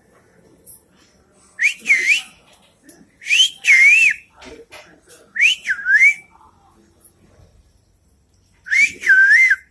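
Pet parrot whistling: four loud whistled phrases, each about a second long, with the pitch swooping up and down.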